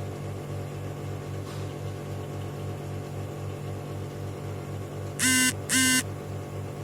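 Steady electrical hum with a slow low pulsing, broken about five seconds in by two short electronic beeps about half a second apart.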